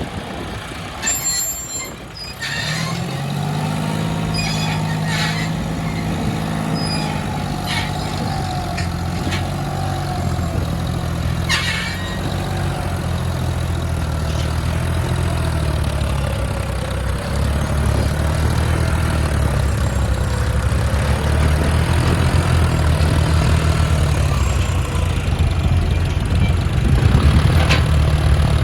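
John Deere 5042D tractor's three-cylinder diesel engine pulling the tractor in third gear of the low range, running at a steady pitch and growing louder in the second half. A few clicks and rattles come in the first two seconds as it sets off.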